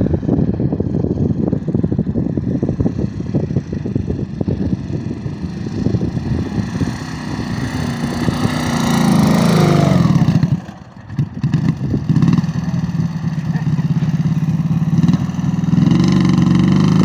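Dnepr motorcycle's flat-twin engine revving hard under load as the bogged-down bike tries to pull free. The revs climb a little after halfway, cut out briefly, then pick up again and hold high and steady.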